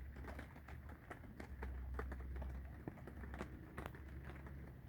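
Raindrops tapping irregularly close to the microphone, several light ticks a second, over a steady low rumble.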